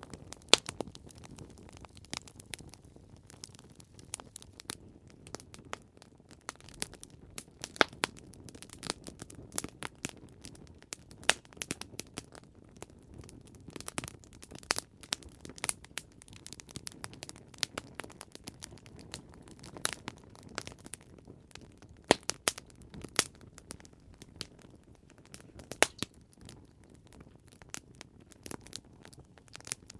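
Campfire burning, with irregular sharp crackles and pops from the burning wood over a low, steady hiss.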